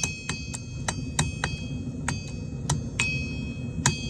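Hand hammer striking a small forged iron piece on an anvil, straightening it: about ten ringing blows in quick, uneven runs with short pauses between them. A steady low rumble runs underneath.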